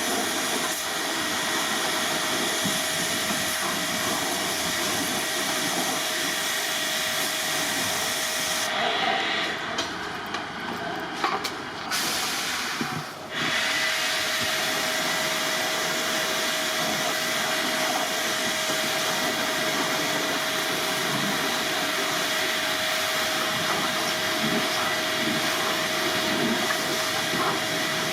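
Steady hissing spray of air or water from cleaning equipment, with a steady machine tone under it; the high hiss drops out for about four seconds near the middle, then comes back.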